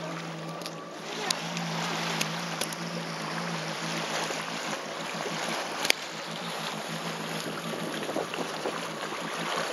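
Jet ski engine idling with a steady low hum, with water splashing around the hull and wind on the microphone. There are a few brief knocks, the sharpest about six seconds in.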